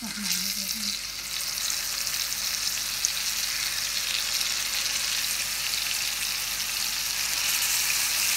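Marinated chicken legs frying in hot oil and butter in a cast-iron pan: a steady sizzle that grows a little louder as more pieces are laid in.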